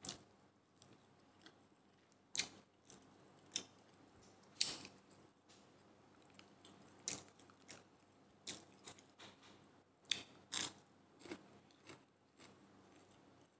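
A person chewing a mouthful of rice, eaten by hand: faint, irregular wet mouth clicks and lip smacks every second or so.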